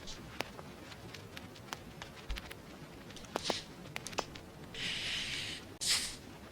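Vinyl record crackle: a faint surface noise with scattered small pops and clicks. Near the end come two short bursts of hiss, the second louder.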